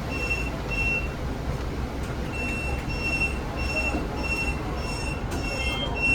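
Electronic warning beeper sounding about twice a second, with a pause of about a second shortly after the start, over the low steady rumble of a Zhongtong hybrid bus.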